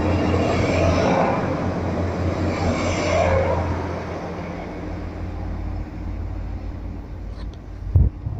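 Class 185 diesel multiple unit pulling out, its diesel engine's steady low drone fading away over the first few seconds as the train leaves. A brief low thump comes near the end.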